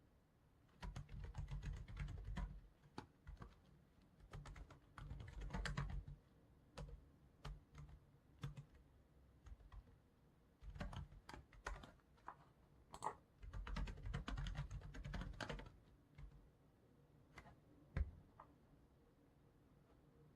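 Typing on a computer keyboard in bursts of fast keystrokes with pauses between, and scattered single clicks, one sharper click about 18 seconds in.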